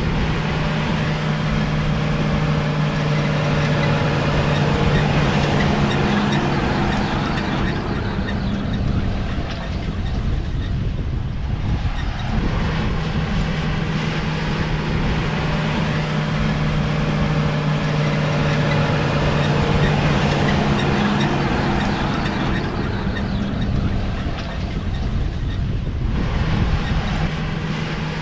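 Heavy diesel harvest machinery running with a steady low drone over a wide mechanical rush. The drone drops away for a few seconds about ten seconds in, then returns.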